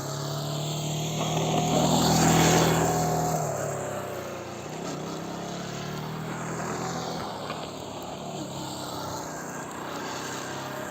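Motorcycle engine running as the bike laps the track, swelling to its loudest as it passes closest about two and a half seconds in, then fading to a steadier, more distant note.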